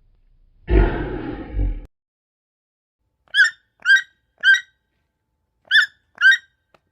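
A loud, rough animal roar or growl lasting about a second. It is followed by five short, high chirps, each dropping at the end, in two groups: three, then two.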